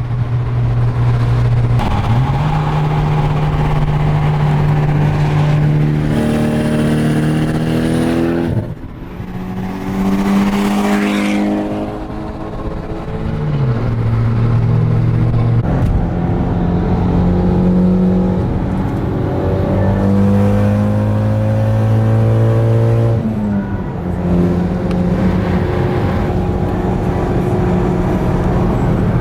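Car engine and exhaust under way, holding steady revs for a few seconds at a time, with the pitch dropping and climbing again at several gear changes.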